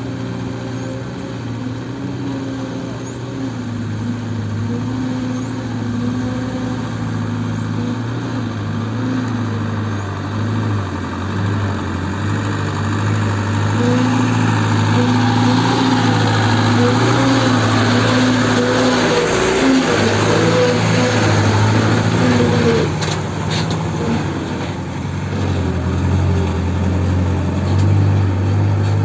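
Heavy diesel engine running at work, its note shifting up and down. It grows louder and harsher through the middle, then eases.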